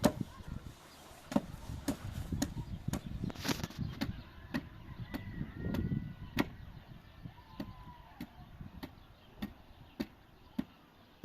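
Hammering on wood: a steady series of sharp knocks, about two a second.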